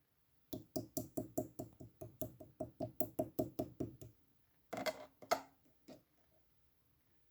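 Green-apple slime being squeezed and pressed by hand, making sharp popping clicks in a fast, even rhythm of about five a second, then after a short pause a few louder, wetter squishes and one last pop.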